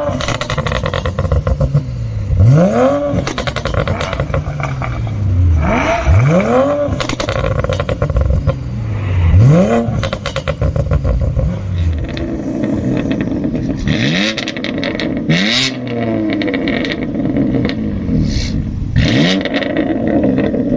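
A performance car engine revved in a series of sharp blips, each one shooting up in pitch and falling back, about six times, with crackling pops and bangs between the revs.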